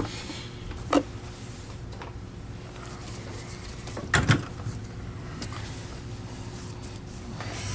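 A few sharp clicks and knocks from objects handled on a workbench, the loudest about four seconds in, over a faint steady hum.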